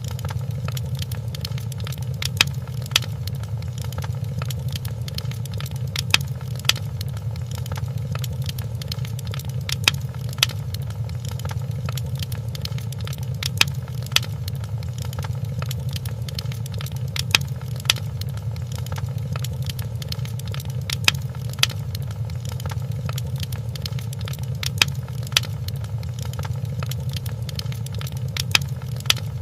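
Wood fire crackling in a fireplace: a steady low rumble with many small crackles and sharper pops, the loudest pops coming in pairs about every four seconds.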